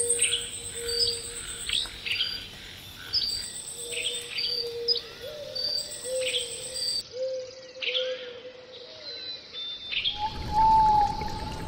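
Nature soundscape of many birds chirping, with an insect's high pulsing trill that stops about two-thirds through and low, even calls repeating underneath. Near the end a rush of flowing water comes in.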